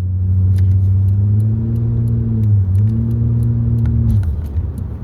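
Car engine running and pulling under load with a steady low drone. Its pitch rises, dips briefly about halfway through, then dies away about four seconds in.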